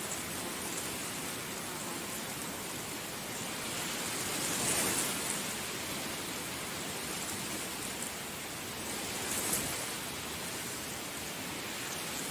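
Heavy rain falling in a steady, dense hiss, swelling briefly twice, about five seconds in and again near nine and a half seconds.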